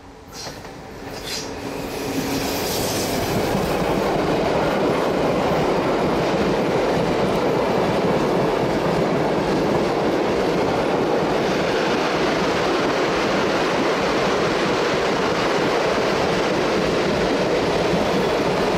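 Train running along the Semmering mountain railway, wheels rolling on the rails. The rumble swells over the first couple of seconds, then holds loud and steady.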